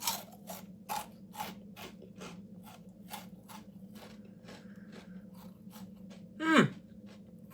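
Chewing crunchy Cheez-It Crunch crackers close to the microphone: a regular run of crisp crunches, about two to three a second, fading a little as the chewing goes on. About six and a half seconds in there is a short vocal sound that falls in pitch.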